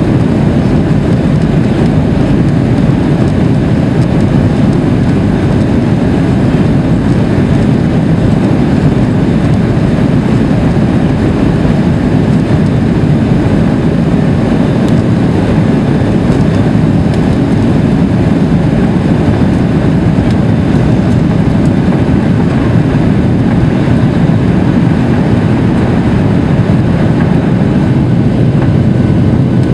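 Cabin noise of a Boeing 737-800 with its CFM56-7B engines running: a loud, steady rumble with airflow hiss that stays unchanged throughout.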